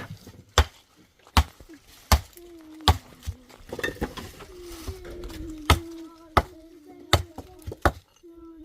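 Repeated sharp blows of a hand tool, about one every three-quarters of a second, with a pause a little past the middle. A steady, slightly wavering hum runs under them from about two and a half seconds in.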